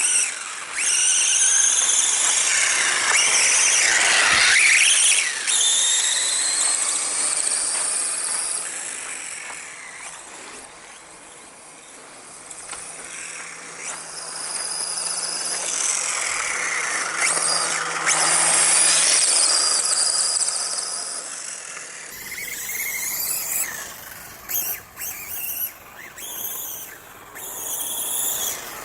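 Electric motor and drivetrain of a Duratrax DX450 RC motocross bike whining, the pitch gliding up and down as the throttle is opened and eased. It is loudest near the start and again a little before the middle of the last third, and becomes choppier with short gaps near the end.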